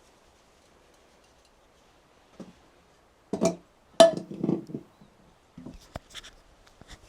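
A few knocks and clinks of hard objects being handled and set down. The loudest comes about four seconds in, with a short ring, and a few lighter clicks follow.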